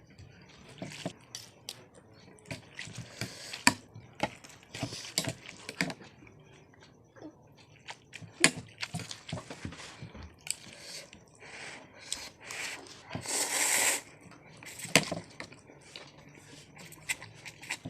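Close-miked eating: chewing and crunching with many short clicks of a utensil on a dish, and a longer noisy burst lasting about a second around two-thirds of the way through.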